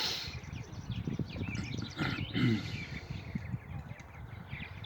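Rose-breasted grosbeaks feeding at a sunflower-seed feeder: irregular light clicking and tapping, with a few short high chirps about two seconds in.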